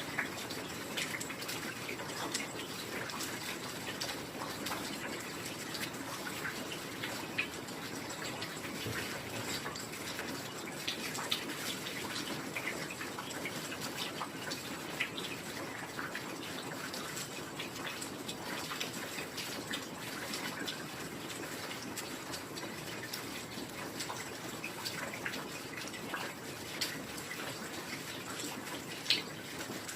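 Heavy rain falling steadily: a dense, even hiss crowded with separate drop ticks. A few louder single drips stand out, one near the end.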